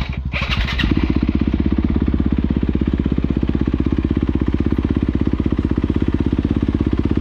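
Trail dirt bike's engine running steadily with an even, rapid pulse, then shutting off suddenly at the very end.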